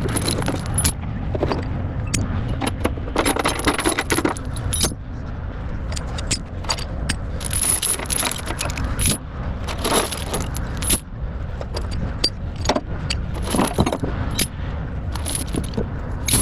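Steel tie-down chains clinking and jangling in irregular bursts as they are handled and pulled out, over a steady low rumble.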